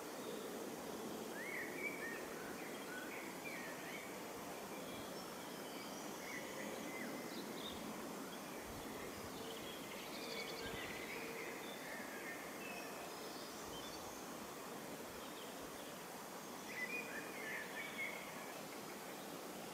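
Short bird calls chirping now and then over a steady outdoor hiss, with a brief flurry of calls near the end.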